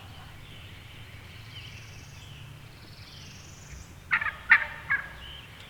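Wild turkey gobbling once, a loud, rapid rattling call about four seconds in.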